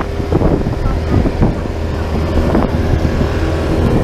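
A small boat's engine running steadily at a constant speed, with some wind buffeting the microphone.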